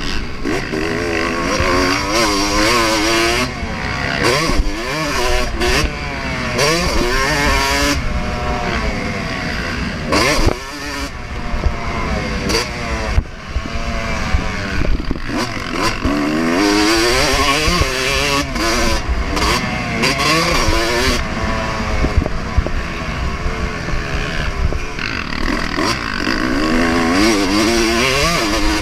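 2024 Yamaha YZ250's single-cylinder two-stroke engine ridden at full throttle around a motocross track. It revs up through the gears again and again, with the pitch dropping back between pulls, and there are short clattering knocks now and then.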